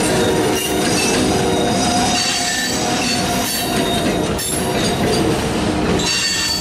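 Freight cars, centerbeam flatcars loaded with lumber, rolling past with their steel wheels squealing in several steady, high tones over the rumble of the wheels on the rail, broken by a few short clunks.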